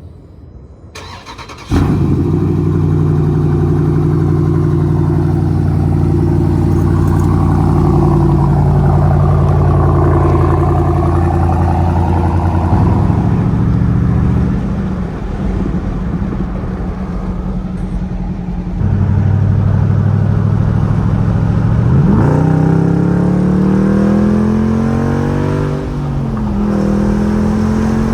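Dodge Durango SRT 392's 6.4-litre HEMI V8 cold-starting with a mid-muffler-delete exhaust (Dynomax bullets, 5-inch tips): it fires about two seconds in, runs at a loud, raised cold idle, then settles to a lower idle. Near the end it is blipped through a few quick revs.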